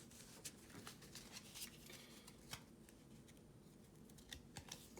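Faint rustling and a few soft clicks of trading cards being handled, over quiet room tone.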